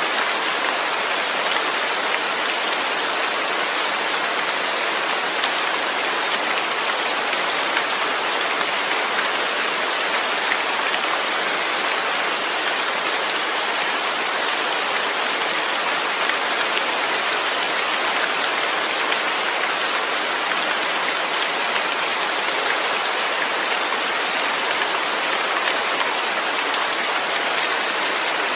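Steady rain falling, an even hiss of raindrops without a break.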